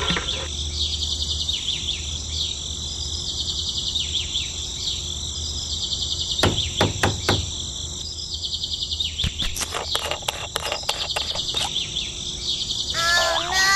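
Insects chirping steadily in a fast, high, pulsing chirr, with birds calling. Short light clicks come in two runs, one about halfway through and more in the last few seconds.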